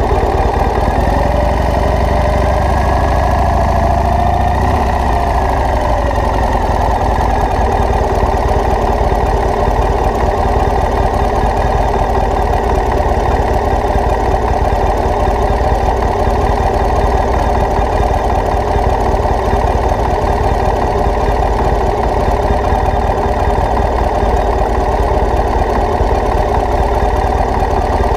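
Motorcycle engine running steadily, with a slight change in pitch about four to five seconds in.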